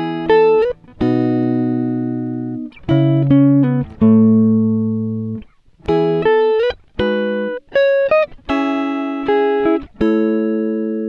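Background music: a guitar playing a slow single-note melody, each note plucked and left to ring out, with some notes sliding into the next.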